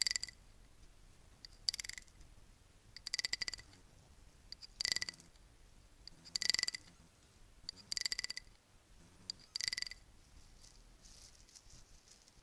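Bracelets shaken so they clink together, seven quick jingling rattles about every one and a half seconds with a bright metallic ring. Near the end the clinking gives way to a fainter rustle.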